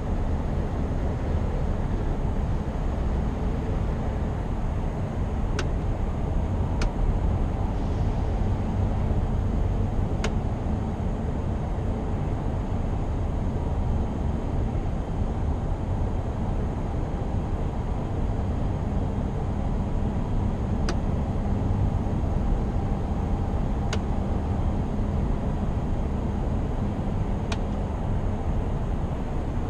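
Scania R520 V8 truck driving at a steady speed: a constant low engine drone mixed with road and tyre noise. A few faint, sharp clicks come at irregular moments.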